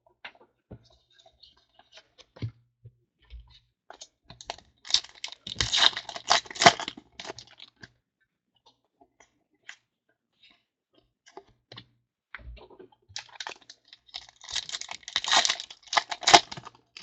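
Foil packs of 2014 Rookies & Stars football cards being torn open and the cards flicked through by hand: scattered clicks, then two bursts of crackly rustling and clicking, about five seconds in and again about fourteen seconds in.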